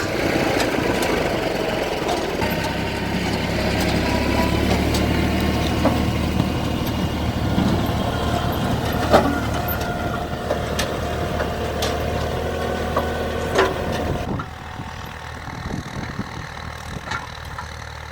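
Tractor engine running steadily with an automatic potato planter in operation, with a few sharp clicks. About fourteen seconds in the sound drops to a quieter low engine hum.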